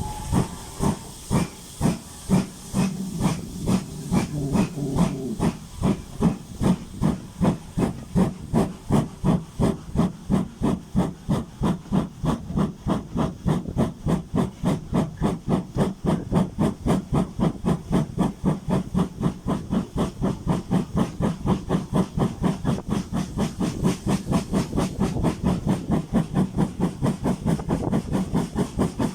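GWR Hall-class two-cylinder 4-6-0 steam locomotive 4953 'Pitchford Hall' pulling away, its chuffs starting slowly and quickening steadily as it gathers speed. Steam hisses alongside the beats in the first few seconds.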